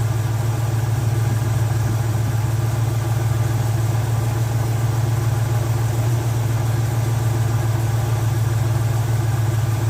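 Chevrolet 350 V8 idling steadily with an even, unchanging hum while the carburetor idle-mixture screw is backed out about one turn during idle-mixture adjustment.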